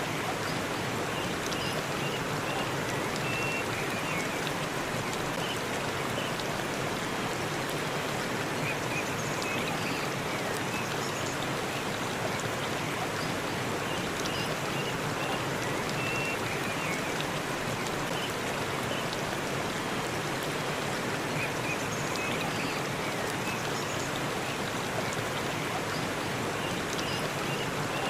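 Waterfall in a forest, water rushing and splashing in a steady, unbroken wash. Short high chirps come faintly every few seconds.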